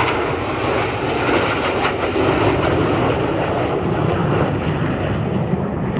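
Military jet engines of a display aircraft flying past, a loud steady rushing sound with no clear pitch.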